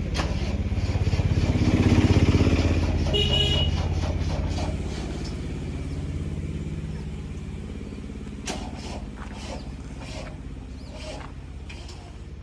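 Diesel engine of a heavy earthmoving machine running under load, rising to its loudest about two seconds in and then slowly easing off. A short high-pitched toot sounds around three seconds in.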